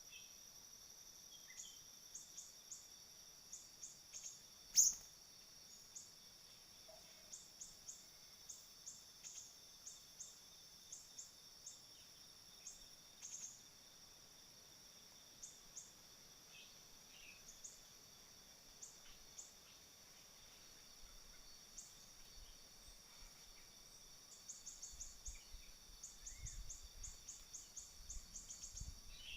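Short, high bird chirps repeat at irregular intervals over a steady high insect drone, with a sharp click about five seconds in. In the last few seconds there is low rumbling, and the chirps come faster.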